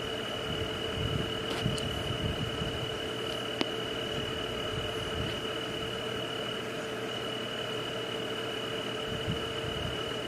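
Night nature ambience: a steady high drone and a lower steady hum over an even hiss, with a few faint clicks, a little before two seconds in and again near four seconds.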